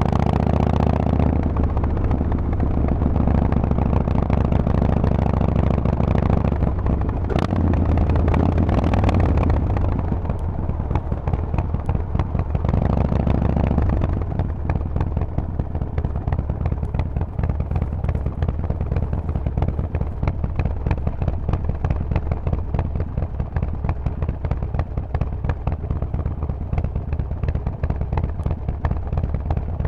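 Harley-Davidson Forty-Eight's 1200 cc V-twin running through a Vance & Hines exhaust, pulling steadily for the first half. About halfway through it drops to a quieter, choppy, uneven beat.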